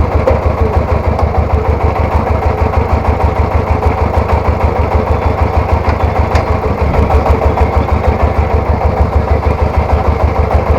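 Three-wheeled farm tractor's single-cylinder diesel engine running steadily at idle, with a rapid, even chugging beat.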